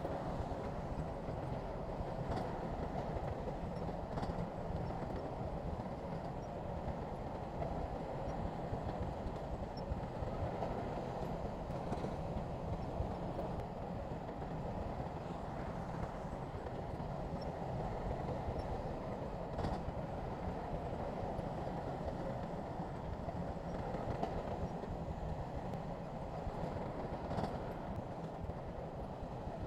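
Bulldozer's diesel engine running steadily under work, with a few faint clanks from the steel tracks and blade.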